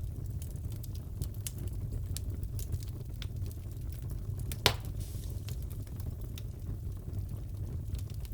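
Crackling fireplace: a steady low rumble of burning with scattered small crackles, and one sharp, louder pop near the middle.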